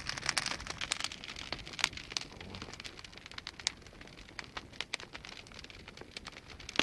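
Large bonfire of logging slash crackling, with irregular sharp pops over a faint hiss; the pops come thickest in the first couple of seconds, with one louder pop about two seconds in.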